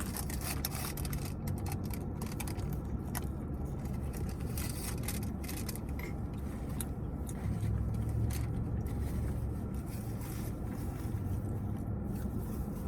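Someone eating fast food: scattered clicks, crackles and rustles of chewing and handling food and wrappers, over a steady low rumble.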